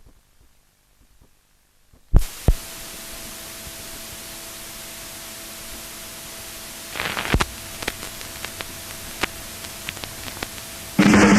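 A sharp click starts a music recording's playback, then a steady hiss with a faint hum and scattered clicks and crackles; drums of the next song come in near the end.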